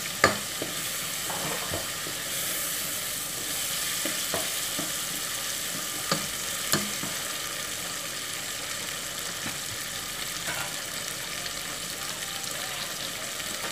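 Chicken strips sizzling as they fry in a pot, stirred with a spatula that knocks sharply against the pot a few times in the first seven seconds.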